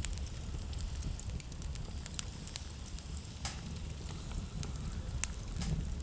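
Wood fire burning in a fireplace, crackling with irregular sharp pops over a low rumble of the flames, one louder pop about three and a half seconds in.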